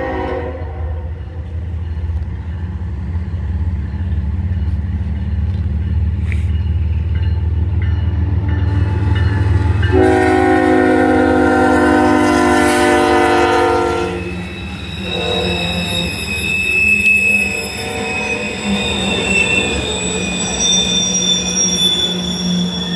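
CSX diesel freight locomotive approaching with a low engine rumble, then sounding its horn in one long blast about ten seconds in, lasting some four seconds. As the loaded grain hopper cars roll past on the curve, wheel flanges squeal in high, steady tones against the rails.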